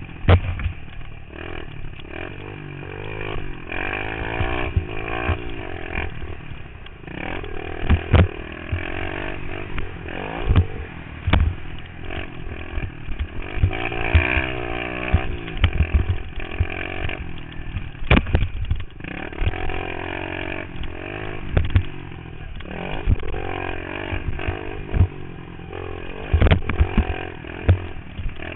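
Pit bike engine revving up and falling back again and again as it is ridden round a dirt track, heard from a helmet-mounted camera, with a few sharp knocks along the way.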